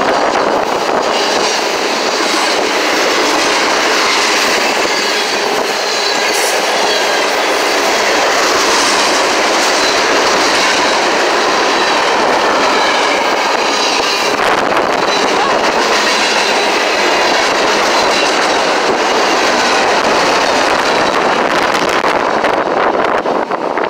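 A train passing at close range: the steady, loud rolling noise of rail cars going by, which drops away sharply near the end.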